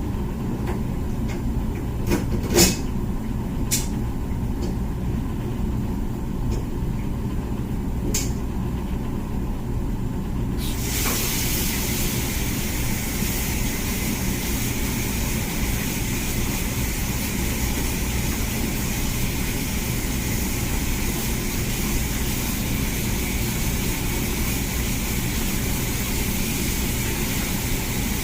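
Comfee countertop dishwasher running mid-cycle with a steady low hum and a few clicks, then a steady rush of water starts suddenly about ten seconds in.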